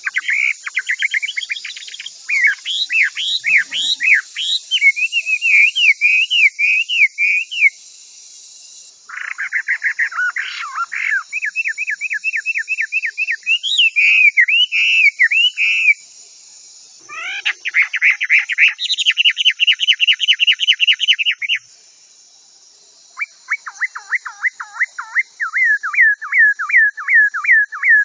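Chinese hwamei singing: fast runs of repeated whistled notes, several a second, switching to a new phrase every few seconds, in four bouts broken by short pauses.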